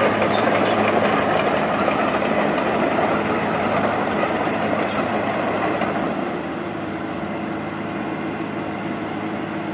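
Heavy diesel engine of a Wirtgen 2100DC cold milling machine running steadily under load, with a rough mechanical rumble and rattle over it. It gets somewhat quieter about six seconds in.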